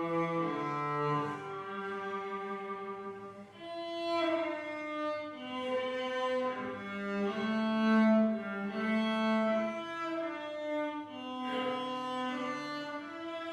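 Cello playing a slow hymn tune in long, sustained bowed notes.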